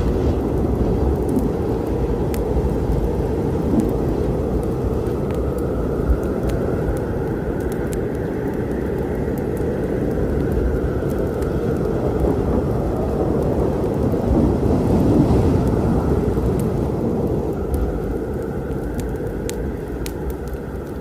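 Long rolling thunder rumbling continuously over storm rain, swelling a little past the middle and easing off near the end. Sparse small crackles of a wood fire sound above it.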